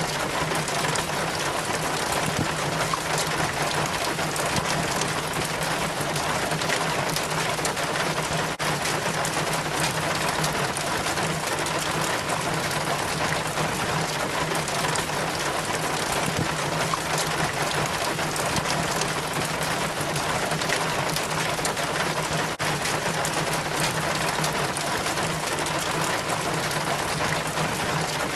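Rainwater trickling and splashing down a rain chain, a steady dense patter of drips, with a steady low hum underneath.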